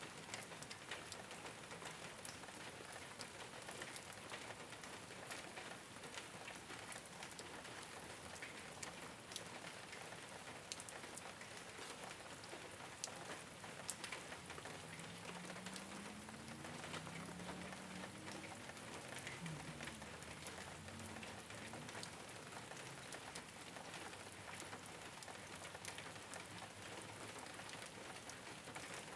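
Steady rain falling on a rooftop, an even hiss dotted with many sharp individual drop ticks. Around the middle, a faint low tone rises and falls for a few seconds under the rain.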